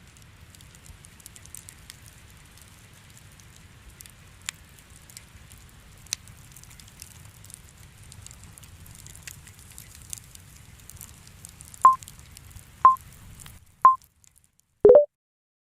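Fireplace crackling with a low rumble and scattered pops. About twelve seconds in come three short beeps a second apart, then a fourth lower-pitched beep, as the fire sound cuts off.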